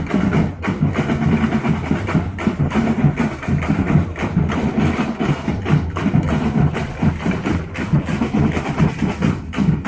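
Live drumming: drums struck in a fast, dense rhythm with many hits a second.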